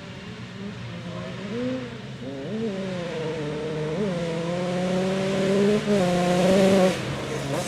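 Motorcycle engine revving hard and shifting through gears, its pitch climbing and dropping back several times. It grows louder as it approaches, then drops away near the end.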